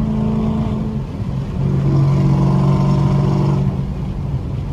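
Straight-piped Dodge Charger Scat Pack's 392 HEMI V8 exhaust while driving. The drone dips about a second in, comes back louder on the throttle for about two seconds, then eases off near the end.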